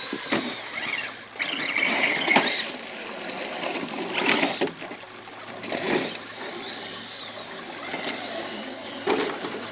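Electric RC crawler truck working over rough ground: its motor and gear drivetrain whine in short, uneven bursts of throttle, with scrapes and sharp knocks as the truck climbs and bumps over the terrain.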